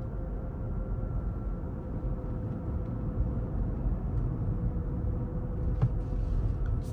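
Road and tyre rumble inside the cabin of a Rivian R1T electric pickup on the move, with a faint steady whine over it.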